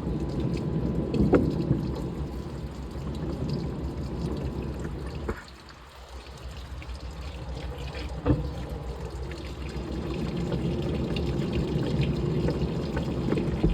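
Washing machine mid-cycle, with water pouring and sloshing in the drum. The sound dips briefly about five seconds in and then picks up again, with a short knock twice.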